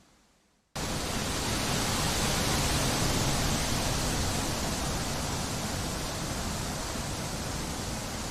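Steady rushing wind noise, an even hiss, cutting in abruptly under a second in after a moment of near silence.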